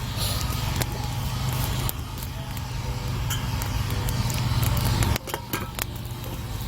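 An engine running steadily with a low hum, which cuts off abruptly about five seconds in. A few clicks and knocks follow.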